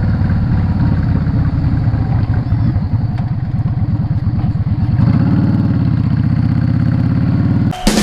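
Yamaha Drag Star 650's air-cooled V-twin engine running, its note changing about five seconds in. It cuts off suddenly near the end as drum-heavy music begins.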